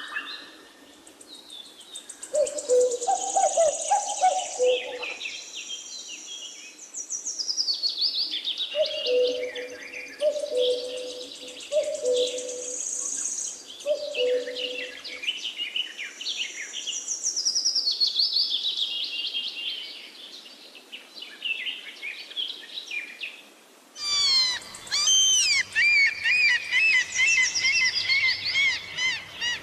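Forest birdsong: several songbirds singing high trills and whistles, over which a low two-note call repeats, about every second and a half, in the first half. About 24 s in it switches abruptly to a denser chorus of birds.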